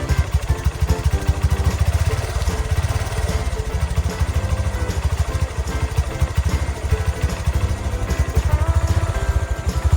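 A small engine running with a fast, even chugging beat, over background music with a melody.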